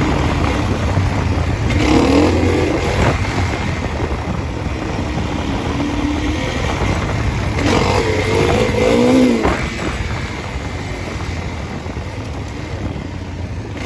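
Dirt bike engine running under the rider, revving up about two seconds in and again around eight seconds in, with rushing wind on the microphone.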